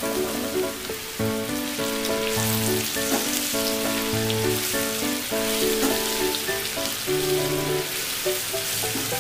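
Besan-coated okra pieces sizzling and crackling as they fry in hot oil in a non-stick pan, stirred with a spatula. Background music plays along with it.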